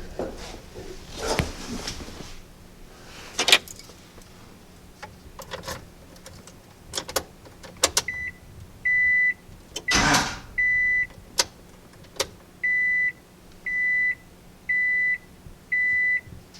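Clicks, knocks and handling clatter as a battery is hooked up to a Honda Civic EF, with a louder rustle about ten seconds in. From about eight seconds in, an electronic warning beep repeats about once a second, each beep high and short.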